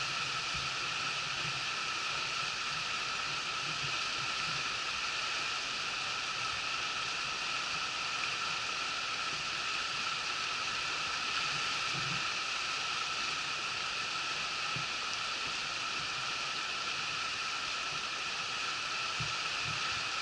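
Shallow mountain river murmuring: a steady, even rush of flowing water.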